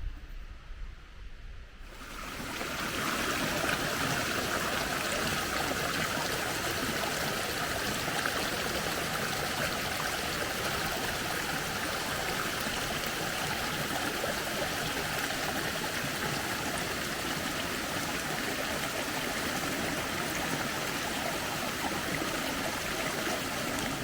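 Running water with a steady rush, coming in about two seconds in after a quiet low rumble.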